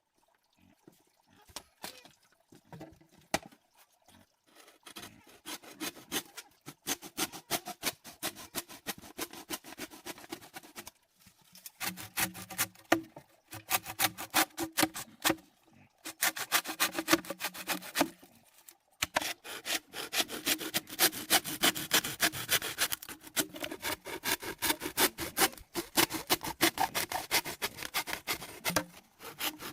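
Wood being worked by hand in runs of quick, even rasping strokes, starting a few seconds in, with short pauses between the runs.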